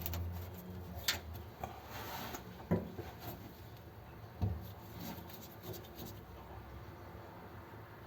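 Hands handling things: rubbing and scraping, with three light knocks about a second, three seconds and four and a half seconds in.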